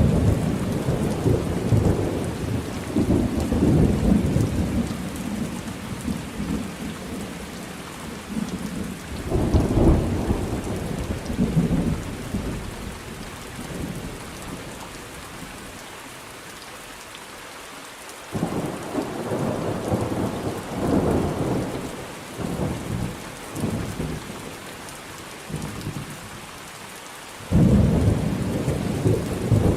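Thunderstorm: steady rain with rolling thunder rumbles that swell and fade. Louder rumbles start suddenly about a third of the way in, again just past the middle, and near the end.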